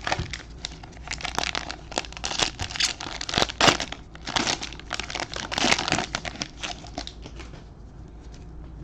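Plastic wrapper of a trading-card pack crinkling and tearing as it is opened and handled, a dense crackle that fades out about seven seconds in.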